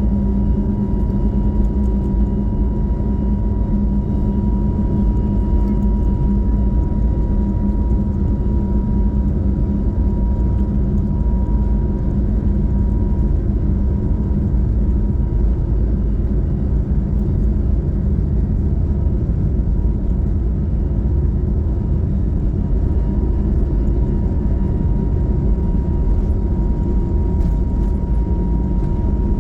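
Steady airliner cabin noise inside an Airbus A321neo: a constant low engine and airflow rumble with a thin, steady high whine over it.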